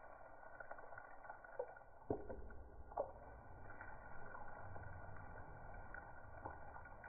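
Breaded mangrove snapper nuggets frying in shallow oil in a pan: a faint sizzle and bubbling with scattered small crackles, and two sharper pops about two and three seconds in.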